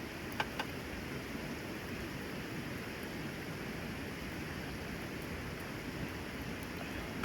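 Steady hiss of rain, with two sharp clicks about half a second in.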